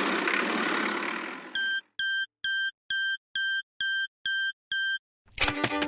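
A hiss of noise fades away, then eight short, identical electronic beeps sound at an even pace of about two a second. Music starts near the end.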